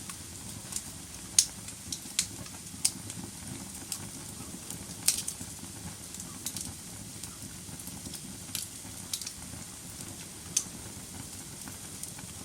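Wood fire burning in a fireplace: a steady low rush of flame with sharp, irregular crackles and pops, the loudest about a second and a half in and again about five seconds in.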